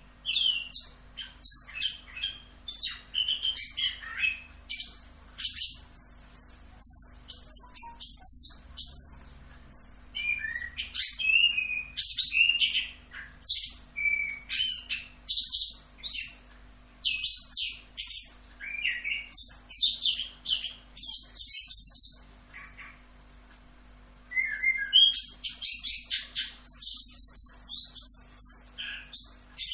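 Chestnut-capped thrush (anis kembang) singing a long, rapid run of varied chirps and whistles, with a brief pause about three quarters of the way through. A faint steady hum sits underneath.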